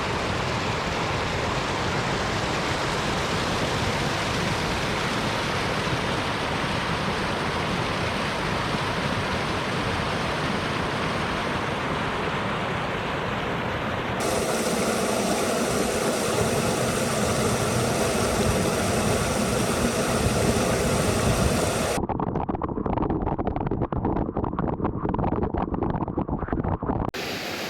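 Water rushing steadily down a small waterfall. The sound changes abruptly about halfway through and turns duller for the last few seconds.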